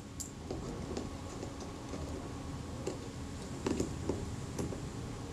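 A few faint, scattered clicks of a small screwdriver and small metal parts being worked on a camera leaf shutter, over a low steady hum.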